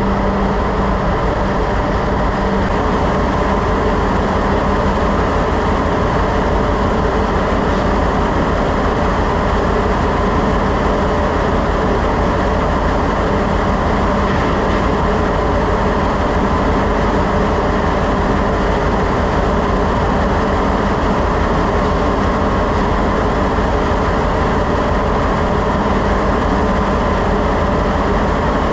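Loud, steady drone of machinery in a ship's engine room, with several steady hums running through it; one low hum drops out about two seconds in and comes back near the end.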